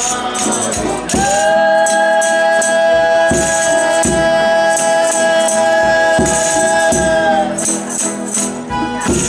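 Folia de reis music: a group of voices holds one long high chord from about a second in until near the end, over a steady beat of tambourine and rattling percussion.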